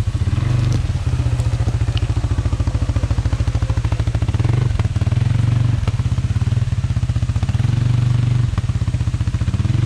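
ATV engine running steadily with a fast, even firing pulse, broken by a few brief knocks.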